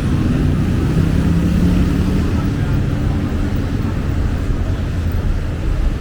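City street traffic: a steady low rumble of vehicle engines and tyres, with one engine's hum standing out between about one and two seconds in.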